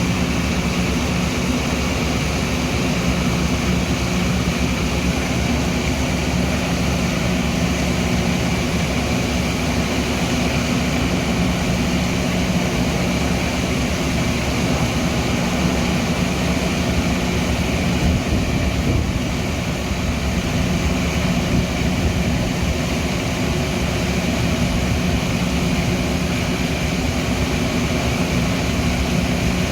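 Steady mechanical drone of a Metra commuter train, with a constant low hum and no breaks.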